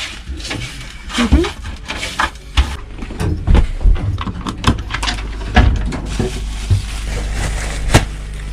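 Irregular knocks and clatters over a steady low rumble.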